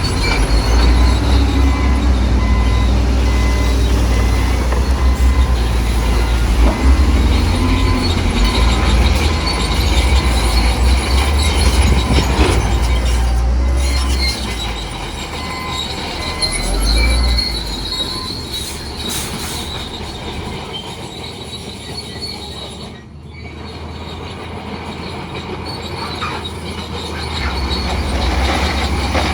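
Bulldozer running, its steel tracks squealing and clanking as it moves, over a deep engine rumble that fades about halfway through.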